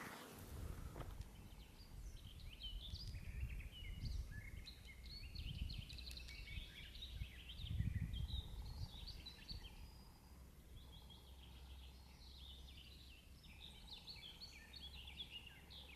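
Birds singing outdoors in a dense run of short chirping notes, over a faint low rumble that swells around the middle.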